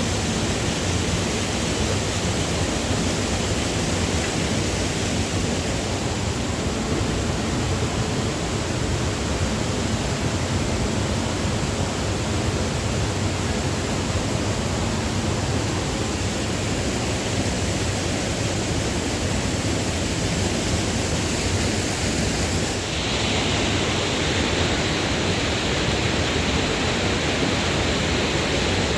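Steady rush of a mountain waterfall's falling water. About three-quarters of the way through it changes abruptly to a brighter, hissier rush.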